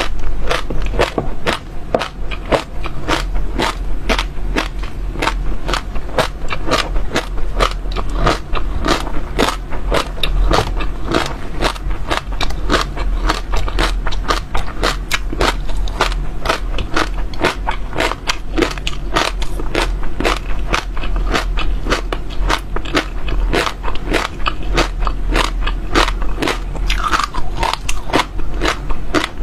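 Seeds being bitten and crunched between the teeth right at the microphone: a continuous run of sharp crackling cracks, several a second, with no pause.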